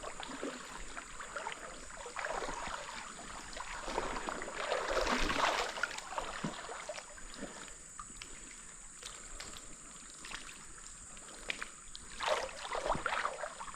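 Water splashing and sloshing, in two louder spells about five seconds in and near the end, over a steady rush of water.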